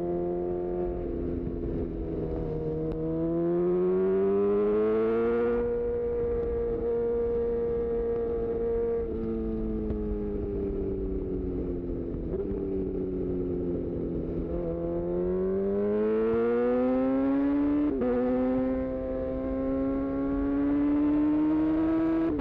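A 2018 Honda CB1000R's inline-four engine running through a full-system Black Widow exhaust. It pulls up through the revs with a rising pitch, holds, and eases off with the pitch slowly falling, then accelerates again. About eighteen seconds in, a quick upshift briefly breaks the sound and drops the pitch, and the engine keeps pulling.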